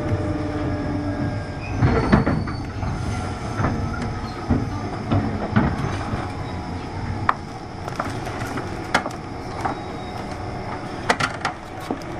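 Interior running noise of a JR 201 series electric train, heard inside a motor car: a continuous rumble with irregular clicks and knocks from the wheels over rail joints. A faint falling whine fades out in the first second or so.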